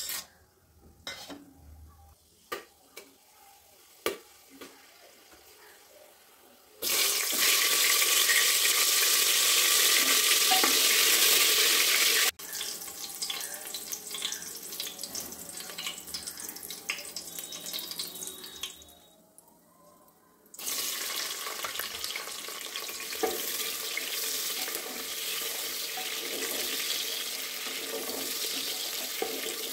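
Whole spices (black pepper, cardamom, cloves) crackling with small pops in hot mustard oil in a pressure cooker. About seven seconds in, a loud frying sizzle starts suddenly as more ingredients hit the oil. Later, sliced onions and garlic sizzle steadily while a spoon stirs them.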